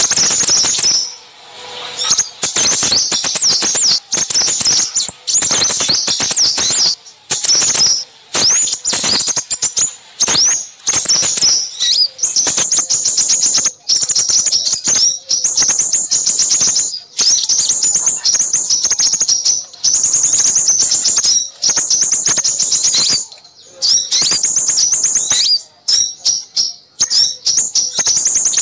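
Loud, dense chirping and twittering of several small songbirds, fast high trills and chirps almost without pause. It is a bird-trapping lure recording of noisy small birds, used to draw in crimson sunbirds.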